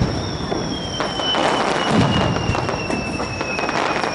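Fireworks display: a deep boom of a shell bursting about two seconds in, amid many sharp crackles, with a long whistle slowly falling in pitch.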